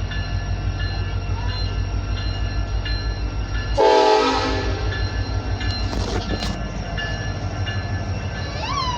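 Union Pacific train rolling slowly past with a steady low rumble, and a short, loud horn blast about four seconds in. A few clanks follow near the six-second mark.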